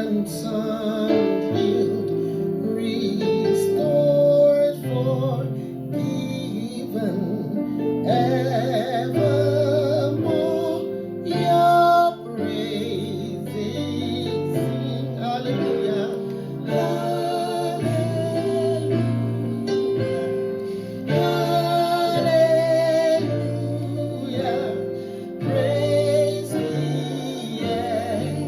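Music: a woman singing a slow hymn with long, wavering held notes over a steady instrumental accompaniment.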